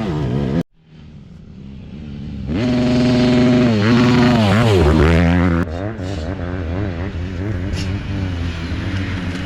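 Dirt bike engines revving, the pitch rising and falling with the throttle. The sound cuts off suddenly under a second in, builds back up to loud revving, and changes abruptly again about two-thirds of the way through.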